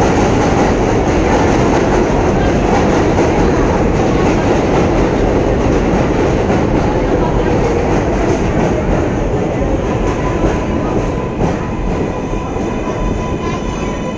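New York 7 train subway cars running on the rails: a loud, steady rumble of wheels on track. In the last few seconds it eases off and a thin, steady whine comes in.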